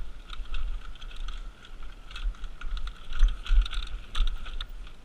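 Mountain bike riding fast down a rough trail, heard through a GoPro action camera: dense rapid clicking and rattling from the bike, a steady high whir, and irregular low rumbling thumps from the bumps and wind on the camera.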